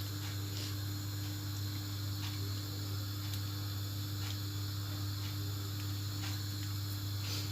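Steady low electrical hum with a light hiss, and a few faint scattered clicks.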